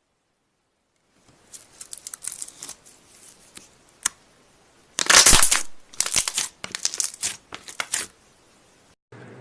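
Slime being squeezed and stretched by hand, giving a run of irregular crackling, popping bursts, loudest a little past halfway.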